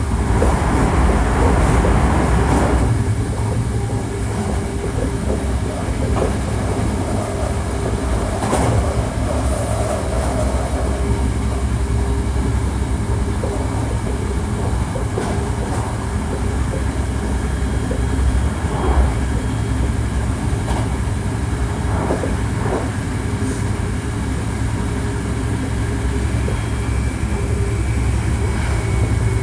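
Hankyu 1300 series electric train heard from inside the car while running at speed: a steady low rumble of wheels on rail, with scattered clicks and knocks from the track and a faint steady hum.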